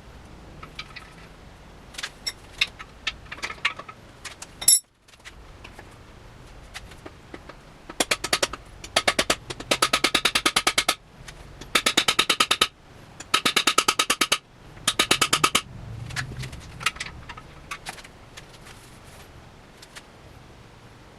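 Metal hammer strikes on a cam bearing driver, seating cam bearings in a Ford 292 Y-block engine block. There are a few scattered taps and one hard hit, then several runs of rapid ringing blows at about ten a second.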